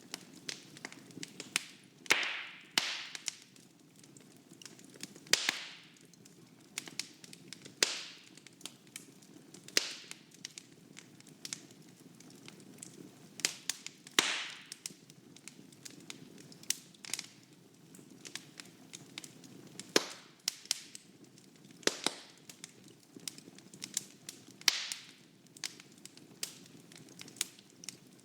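Wood fire burning in a fireplace, crackling with irregular sharp snaps and a few louder pops over a low steady rumble of the flames.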